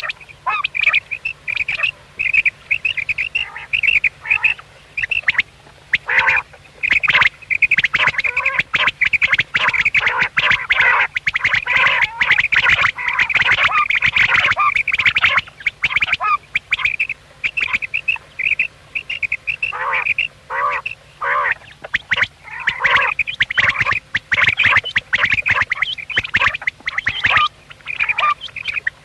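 Common quails calling in a dense, almost unbroken stream of short, rapid, high chattering notes.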